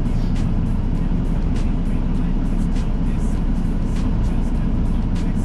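Semi truck's diesel engine running steadily, a deep rumble heard inside the cab while driving, with music playing faintly over it.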